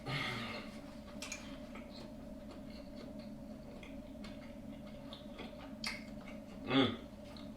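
Close-up eating sounds: soft chewing and small mouth clicks over a steady low hum, with a short voiced sound near the end.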